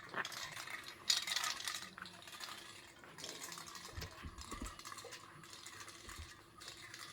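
Light metallic clinking and clattering, irregular, loudest about a second in and again a few seconds later.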